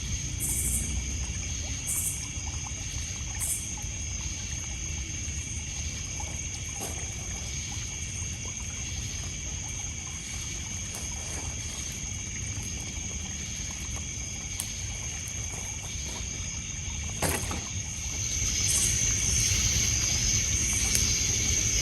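Night lakeside ambience: crickets and other insects trilling steadily on several high pitches, over water lapping and trickling at a pebble shore, with a few sharp crackles from the burning wood. The insect chorus swells louder near the end.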